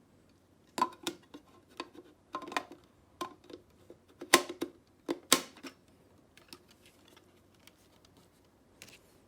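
A series of sharp clicks and knocks from small hard-plastic parts being handled. The loudest come about a second to five and a half seconds in, then a few faint ticks near the end.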